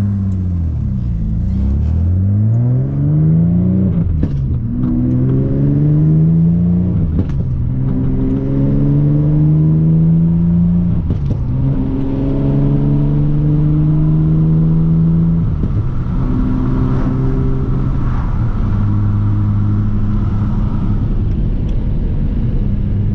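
A 7th-generation Nissan Maxima's 3.5-litre V6, heard from inside the cabin, pulling up through the gears of its swapped-in six-speed manual gearbox. The engine note climbs and drops sharply at each of about five upshifts, each climb longer than the last, then holds steady in a high gear for the last few seconds.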